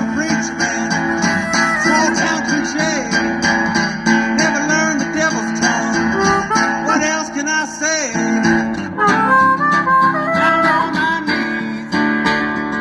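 Live acoustic blues: a harmonica playing an instrumental break, some notes sliding in pitch, over a strummed acoustic guitar.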